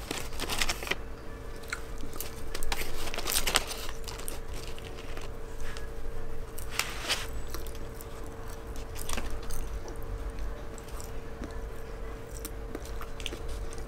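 Close-miked mukbang eating: a hamburger being bitten and chewed, with scattered sharp crunches and crackles and the crinkle of its paper wrapper being handled.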